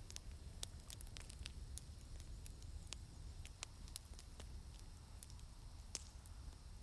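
Wood campfire crackling quietly, with scattered sharp pops at irregular intervals over a low steady rumble.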